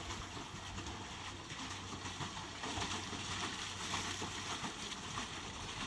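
Water splashing and churning from pedal-driven paddle boats' paddle wheels as the boats pull away, a steady choppy wash of water noise.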